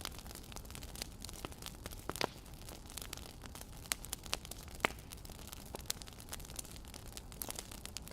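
Wood fire crackling: irregular sharp pops and snaps, a few louder than the rest, over a steady low background.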